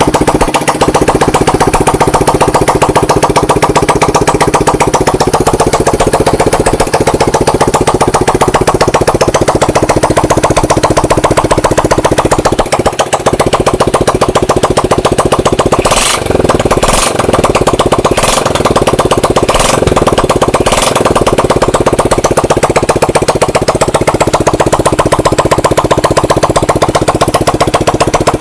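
Yamaha STX 125's single-cylinder four-stroke engine running steadily at idle. A little past the middle, five sharp knocks sound about a second apart over the running engine.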